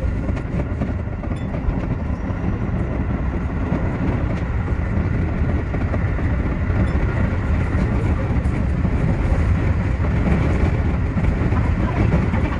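Keio 8000 series electric train running along the line, heard from inside the driver's cab: a steady running noise of wheels on the rails and the train's running gear.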